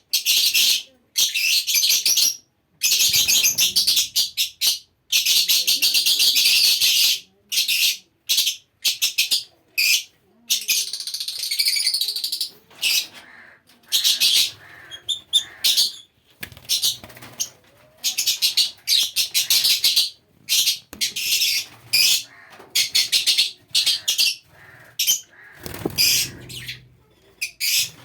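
Many small parrots chirping and chattering at once, in rapid high-pitched bursts with a few longer unbroken runs of calling.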